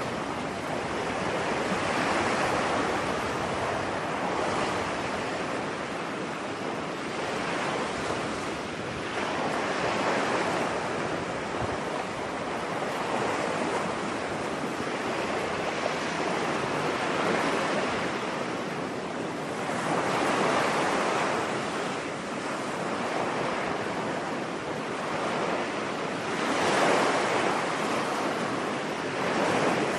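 Ocean surf breaking on a beach: a continuous rush of waves that swells and ebbs every few seconds.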